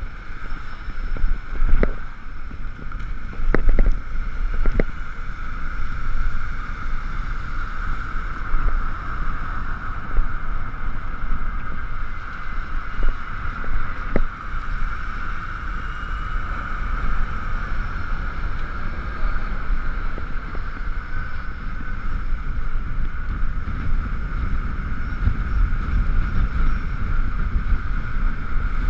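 Riding noise from an Ekoway ML5000 electric scooter on wet roads: wind buffeting the camera's microphone over a steady mid-pitched hiss. There are a few sharp knocks in the first five seconds.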